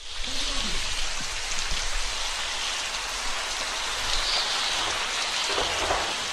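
Steady rain falling, a dense, even hiss of drops with no break.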